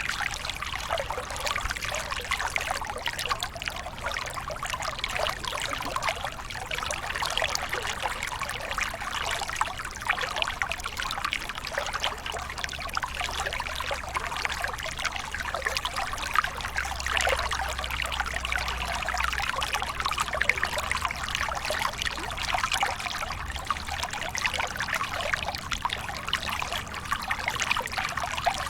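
Water from a waterfall splashing and trickling steadily, a dense even rush with a faint low rumble underneath.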